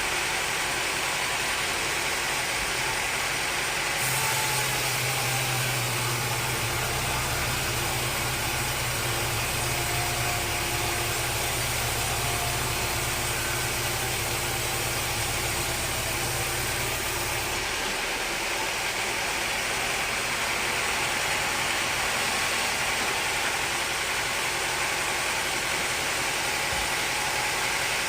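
Sawmill machinery running steadily: a continuous mechanical noise with a low engine hum that comes in about four seconds in and drops away about eighteen seconds in.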